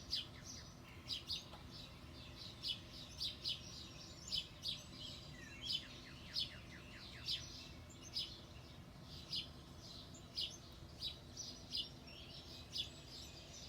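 Songbirds chirping: short, high chirps repeating irregularly, about one or two a second, with a quick run of short falling notes about six seconds in.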